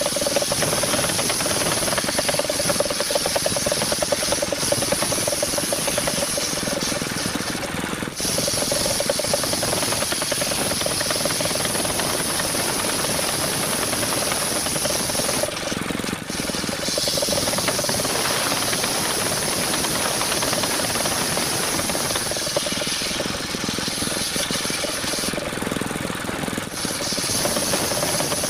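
Mobile circular sawmill running and sawing a coconut palm trunk: a steady machine din with a held whining tone and a loud high hiss. The hiss eases off briefly a few times.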